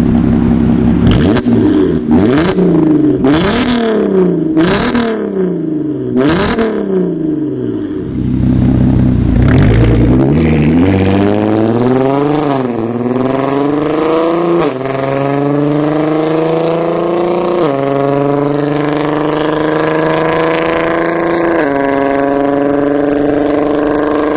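Volkswagen R32 Mk5's 3.2-litre VR6 through an aftermarket valved exhaust: four quick blips of the throttle, each with a sharp crack at the top of the revs. Then a long pull where the revs climb steadily and drop suddenly four times, like upshifts under acceleration.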